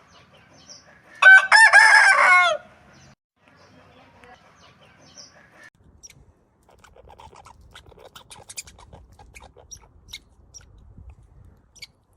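A rooster crowing once, a loud call of a little over a second that starts about a second in and drops in pitch at the end. Faint scattered clicks and rustles follow.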